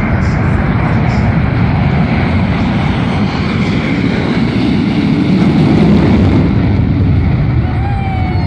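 F/A-18 fighter jet's engines at takeoff power: a loud, steady jet roar that swells a little around five to six seconds in.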